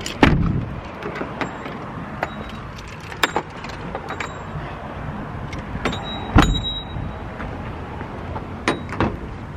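A few sharp knocks and clicks over a steady low rumble, from things being handled in and around a car; the loudest come about a third of a second in and about six and a half seconds in.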